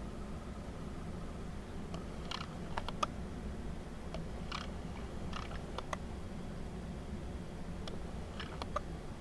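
Wind rumbling on the microphone, with short, sharp clicking calls from a flock of birds coming in small clusters of a few at a time.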